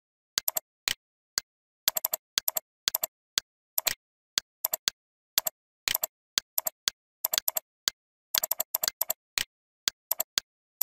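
Computer mouse clicks, sharp and dry, coming in quick pairs and clusters with silence between.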